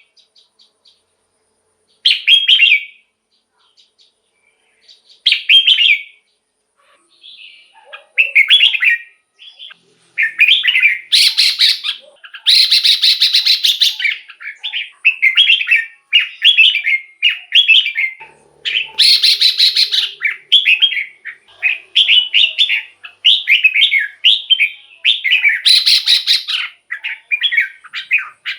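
Red-whiskered bulbul song: short, quick whistled phrases, sparse with gaps at first, then near-continuous from about eight seconds in, broken by several louder, noisy calls.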